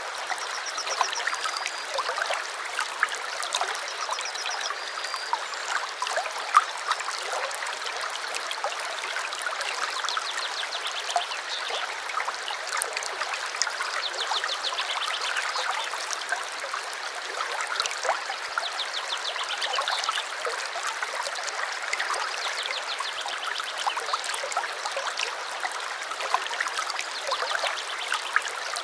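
A small stream running steadily, with short high bird calls and trills every few seconds above the water.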